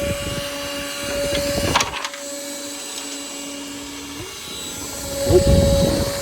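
Cordless ash vacuum running on a DeWalt 20V battery, its motor giving a steady whine as it sucks ashes out of a fireplace. There is a short clatter about two seconds in and a louder rumbling rattle near the end.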